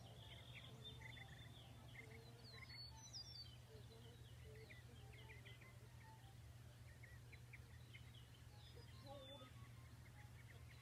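Near silence: faint distant birds chirping, many short calls scattered throughout, over a low steady hum.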